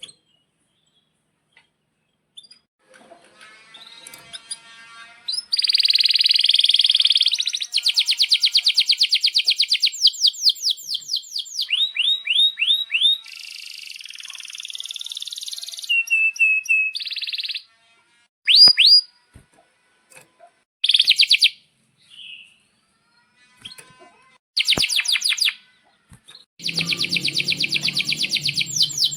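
Male domestic canary singing in loud bursts of rapid trills and long rolls of quickly repeated down-slurred notes, broken by short pauses. A low hum runs under the last rolling trill near the end.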